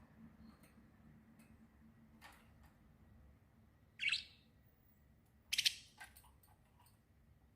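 Small birds chirping now and then: a single sharp chirp about halfway through, then a quick couple of short chirps soon after.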